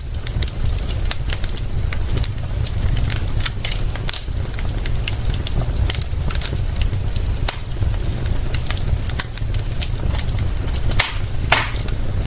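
Wood fire crackling with a steady stream of small pops and snaps, and one louder snap near the end, over a steady low rumble.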